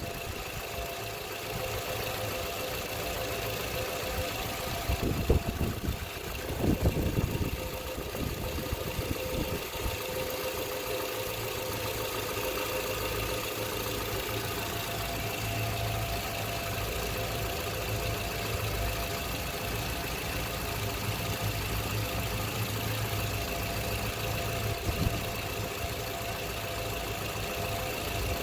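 2012 Toyota RAV4 engine idling steadily while the transmission fluid is topped up and its level checked, with a few short knocks and clatters about five to seven seconds in and once near the end.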